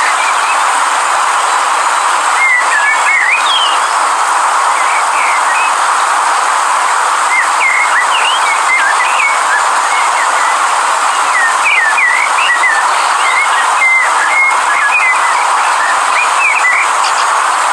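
A river's water rushing in a steady, even noise, with small birds chirping in short, quick calls scattered throughout.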